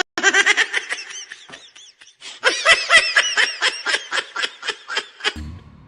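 A person laughing hard in quick, rhythmic, high-pitched bursts of about five a second, in two bouts with a short break about two seconds in.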